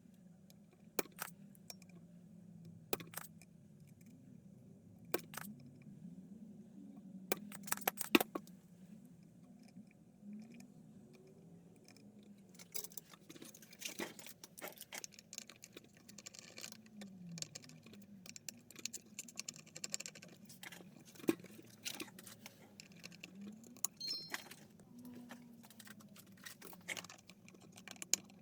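Small metal hand tools clicking, clinking and scraping on a TV power supply board as the silicone compound is worked off and the MOSFETs are desoldered. Scattered sharp clicks, a denser stretch of light scraping in the middle, over a faint low steady hum.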